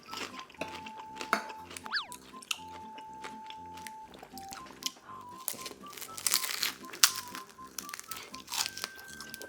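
Close-miked crunchy biting and chewing of crisp fried beef large intestine (daechang), a run of sharp crackly crunches over light background music.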